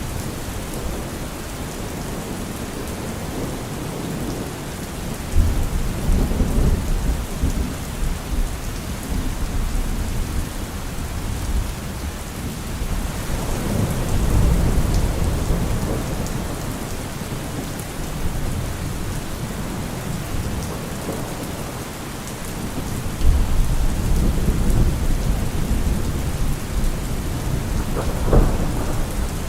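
Steady rain falling, with thunder rumbling several times: rolls beginning about five, thirteen and twenty-three seconds in, and a sharper clap near the end.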